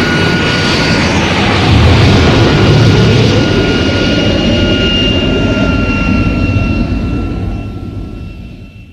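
Jet engine sound effect: a loud roar with a steady high whine over it, swelling about two seconds in and fading out over the last couple of seconds.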